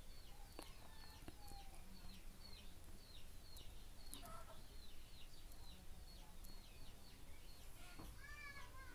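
Faint bird calls in the background: a short, high chirp repeated about three times a second, with a lower, stronger call about four seconds in and again near the end.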